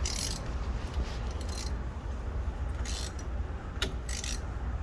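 Hand socket ratchet clicking in short bursts, about one every second or second and a half, as a spark plug is backed out of a HEMI V8 cylinder head. There is a single sharp click near the end, over a steady low rumble.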